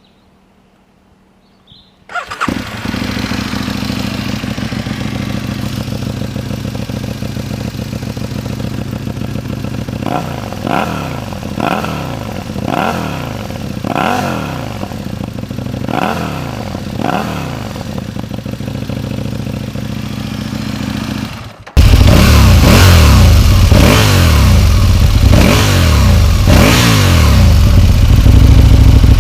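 Aprilia Tuono motorcycle engine starts about two seconds in and runs through a stock exhaust with its rear baffles removed and the catalytic converter kept. It idles, then is revved in about eight short blips roughly a second apart. Near the end the exhaust note turns abruptly much louder and stays loud.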